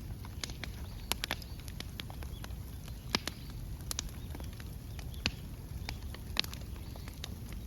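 Bamboo burning in an open fire, crackling with irregular sharp pops, a few of them louder, over a low steady rumble.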